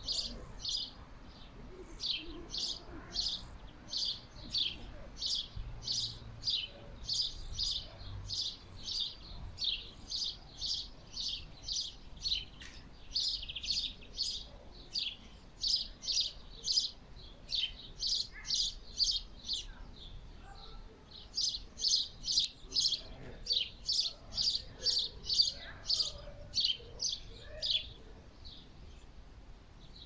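A small bird chirping over and over, about three chirps a second with a few short pauses, falling silent near the end.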